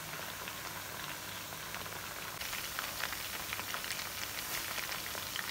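Marinated chicken pieces deep-frying in hot coconut oil: a steady sizzle with scattered crackling pops that grow busier about two seconds in.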